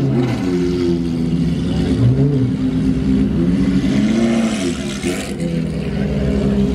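Car engine revving, its pitch swelling up and falling back a few times over a steady running note.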